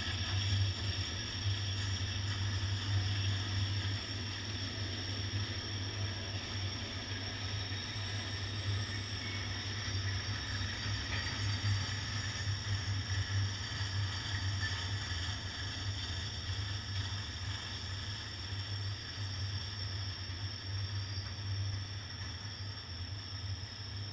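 Flatcars of a slow freight train loaded with continuous welded rail rolling past: a steady low rumble of wheels on the track that slowly grows a little quieter.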